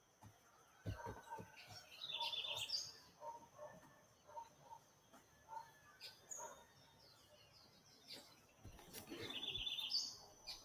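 Birds calling: one repeats a quick run of high notes twice, about seven seconds apart, over a steady high whine and softer scattered lower calls. A few low thumps come about a second in and again near the end.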